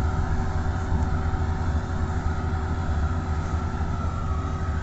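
Tractor diesel engines running steadily at full throttle under load in first gear.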